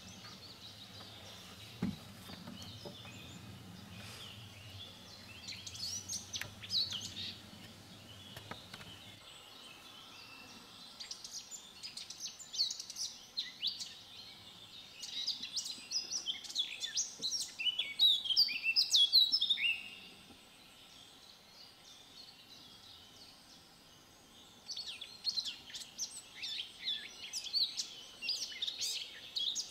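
Small songbirds chirping and twittering in repeated bursts of short, high calls, busiest a little past halfway and again near the end.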